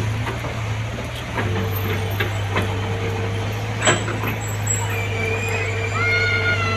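Diesel engine of heavy machinery running steadily with a low hum, with a few sharp metallic knocks, the loudest about four seconds in. A person's voice calls out over the engine near the end.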